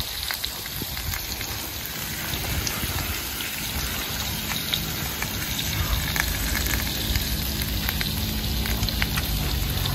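Wood fire in a stone oven crackling, with scattered sharp pops over a steady hiss.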